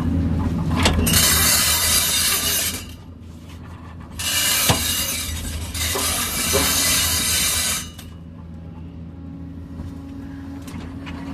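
Kobelco excavator's diesel engine running steadily under load, with two long spells of loud rattling and clattering, like stones and soil scraping and spilling from the bucket, and a few sharp knocks.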